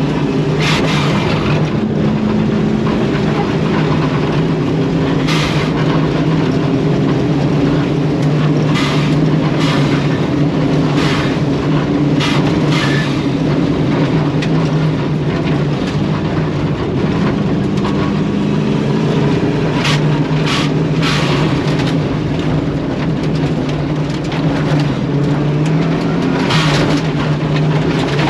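Rally car driven hard on a dirt course: the engine runs under load with its pitch rising and falling through the gears, over steady road noise, with sharp ticks and clatters of gravel striking the car at irregular moments.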